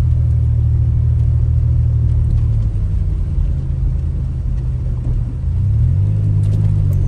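Car engine running with a low rumble, its pitch shifting a couple of times as the speed changes.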